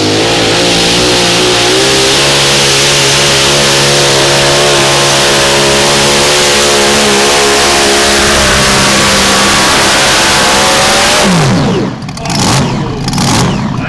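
Modified mini pulling tractor's racing engine at full throttle under load as it pulls the sled, holding a loud, steady high pitch. About eleven seconds in the revs drop sharply as the throttle comes off, leaving an uneven, choppy engine sound.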